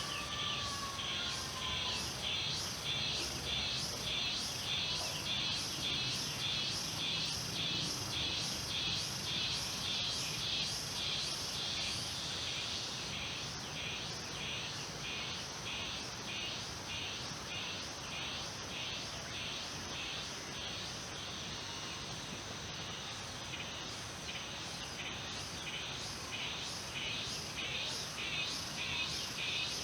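Insects chirping in an even rhythm, about two pulses a second, over a continuous high-pitched trill.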